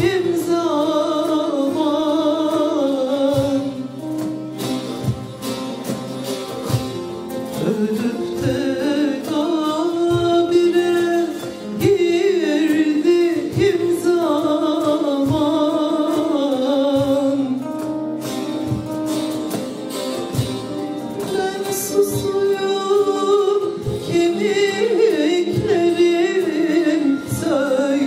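Live Turkish folk song (türkü): a female voice sings a wavering, ornamented melody over saz-led ensemble accompaniment with steady plucked strokes.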